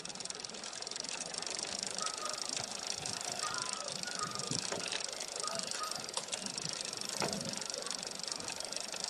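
Bicycle being ridden, with a steady rapid ticking and rattling from the chain and freewheel.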